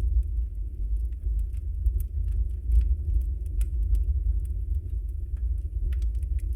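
Wood fire burning in a fireplace: a steady low rumble of the flames with frequent small, sharp crackles and pops from the burning logs, scattered irregularly throughout.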